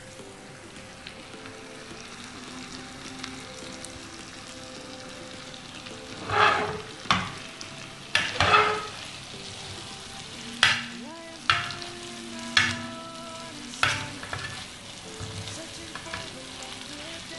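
Boneless chicken sizzling and bubbling in oil and butter on a tawa (wide flat griddle pan). In the second half, a steel spoon stirs it, scraping and knocking against the pan about eight times.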